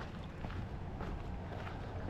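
Footsteps on rocky ground: a few faint, irregular steps.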